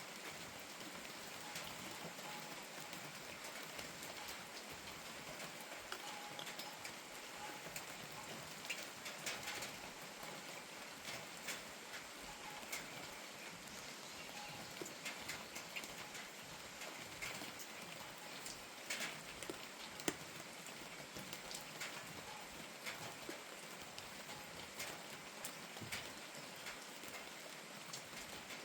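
Steady rain falling, with many irregular drops tapping on a hard surface and one sharper tap about two-thirds of the way through.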